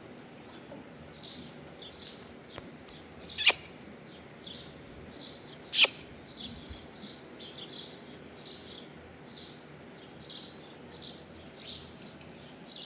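Birds chirping over and over, short falling chirps about twice a second, with two sharp clicks about three and a half and six seconds in.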